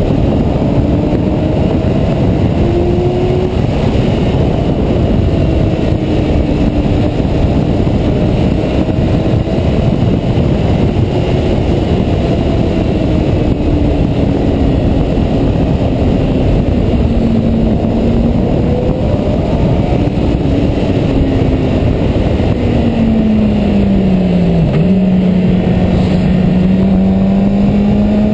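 Yamaha R6 inline-four engine running at road speed, its pitch rising and falling with the throttle, under heavy wind rumble on the camera microphone. About 25 seconds in the engine note falls sharply and climbs again.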